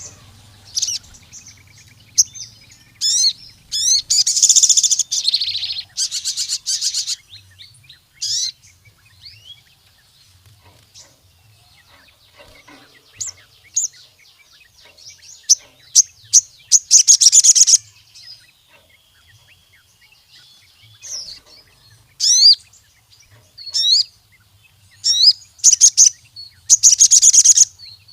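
Ruby-cheeked sunbird (sogon) singing: sharp high chirps and fast rattling trills, in loud bursts of one to three seconds with scattered single chirps between, over a faint low hum.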